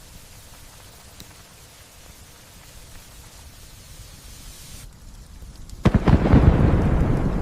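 Steady light rainfall hissing, then about six seconds in a sudden loud crack of thunder that rolls on and slowly fades.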